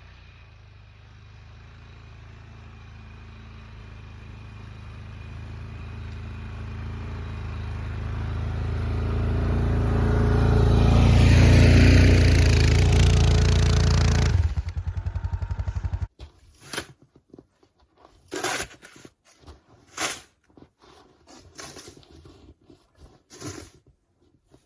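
Quad (ATV) engine pushing a homemade board plow through deep snow, growing steadily louder as it comes closer, then settling to a pulsing idle before cutting off about sixteen seconds in. A string of short sharp noises follows.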